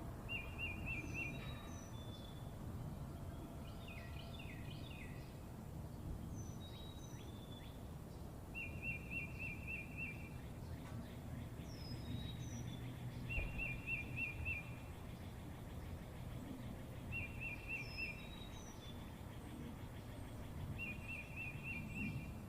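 Small birds singing: a short, fast trill repeated five times, every few seconds, with scattered higher chirps. A steady low rumble of background noise runs underneath.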